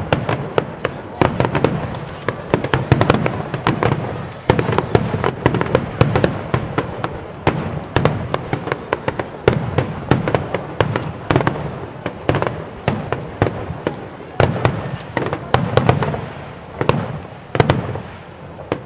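Aerial fireworks bursting in a dense, rapid barrage: many overlapping bangs and crackles over a low rumble, easing off near the end.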